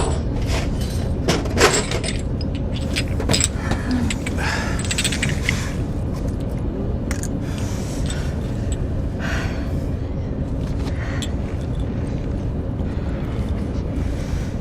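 Steady low drone of an airliner cabin in flight, with scattered rustles and small clicks on top.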